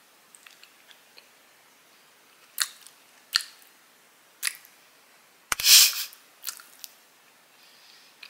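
Close-up chewing of a soft, sticky mochi-like sweet: scattered wet mouth clicks and smacks, with one louder, longer burst about five and a half seconds in.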